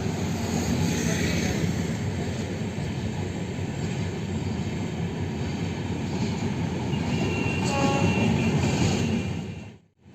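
Shatabdi Express passenger train running past, its wheels on the rails making a steady heavy rumble. A brief high-pitched wheel squeal comes near the end, and then the sound cuts off suddenly.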